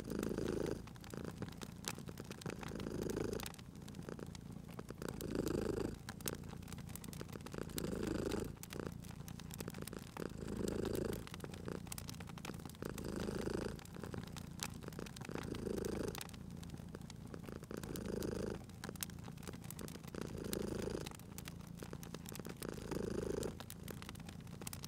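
A domestic cat purring, the purr swelling and easing in a slow rhythm about every two and a half seconds with its breathing. A wood fire crackles underneath with frequent small pops.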